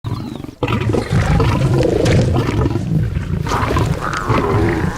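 Lions growling and snarling, low and loud, starting about half a second in, with a harsher burst of snarls in the second half.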